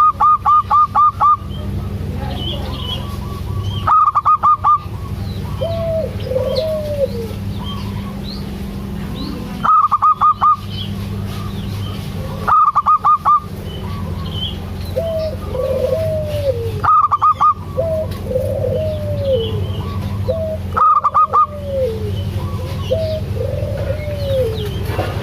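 Zebra doves (perkutut) calling. Loud bursts of rapid, evenly pulsed notes come six times, every three to five seconds, with softer rising-and-falling coos between them. A steady low hum runs underneath.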